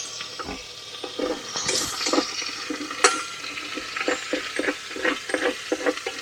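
Sausages and red onion sizzling in garlic oil in an Instant Pot on its sauté setting, while a utensil stirs them with repeated scrapes and knocks against the pot, one sharp knock about three seconds in.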